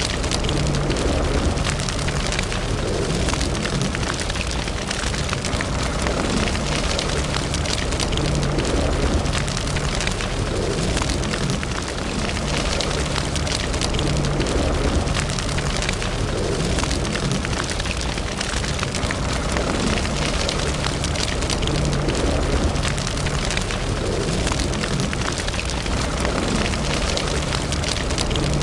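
Wood fire burning in a fireplace, crackling steadily with many small pops over a low rumble of the flames.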